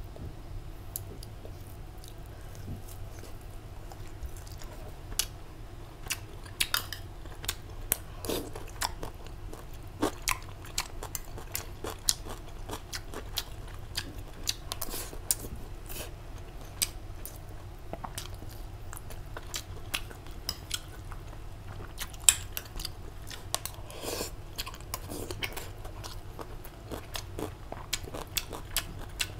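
A person chewing and crunching a meal of rice and pickled vegetables close to a clip-on microphone, with cutlery clicking against a plate in irregular taps. A low steady hum runs underneath.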